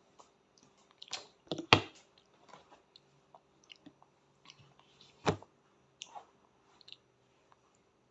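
A small child eating pasta: scattered wet chewing and mouth clicks, with two sharper knocks, about two seconds and five seconds in.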